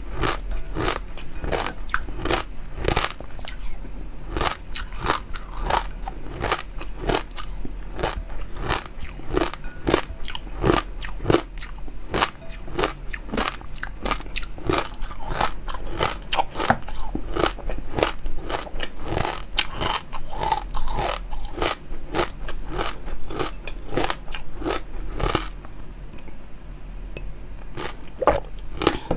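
Close-miked eating: continual crunchy chewing and biting, with many crisp, irregular clicks and crackles of food between the teeth.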